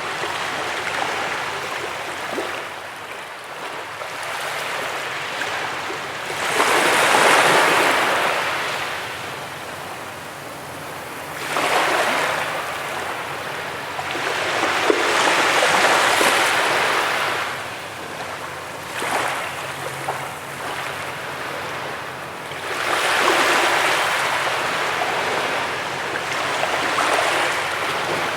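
Ocean waves breaking on a beach, with four louder rushes of surf a few seconds apart over a steady wash of water.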